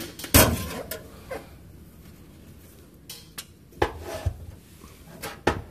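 Scattered metallic clinks and knocks of hand tools and parts during exhaust work under a car, the loudest one shortly after the start and a handful more spread through the second half.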